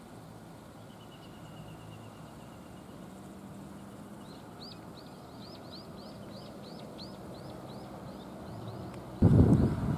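A songbird sings. First comes a thin, held high whistle, then a fast run of repeated rising-and-falling high notes, about three a second. Near the end a sudden loud gust of wind buffets the microphone, drowning it out.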